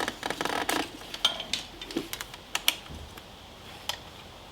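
Light metallic clicks and clinks of hand tools working the carburettor off a two-stroke dirt bike: a quick run of clicks in the first second, then single clicks spaced out.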